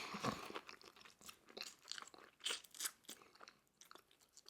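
A person chewing food close to the microphone: soft, irregular crunches and mouth clicks.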